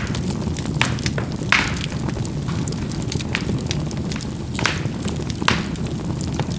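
Charcoal burning in a fireplace: a steady low rumble of the fire with sharp pops and crackles of the coals bursting every second or so.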